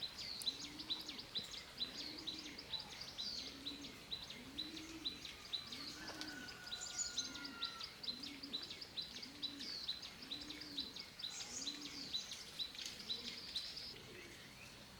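Birds calling: a rapid series of high chirps, several a second, over a low arched call repeated about once a second. Both fall away near the end.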